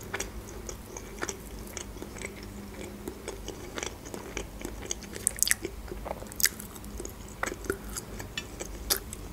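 Close-miked chewing and eating mouth sounds from someone eating mackerel with her fingers: wet lip smacks and irregular sharp clicks.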